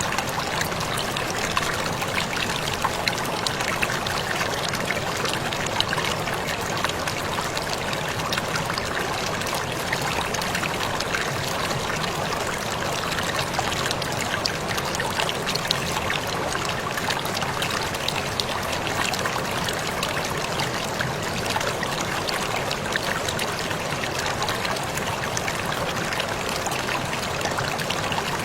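Waterfall pouring and splashing steadily, a dense even rush of water with fine crackling droplet splashes.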